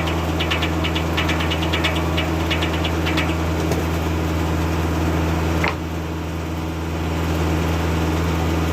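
Kubota tractor engine running steadily under the drive of a Foley-Belsaw circular sawmill, with a fast ticking over it for the first three seconds or so that then stops, leaving the steady running.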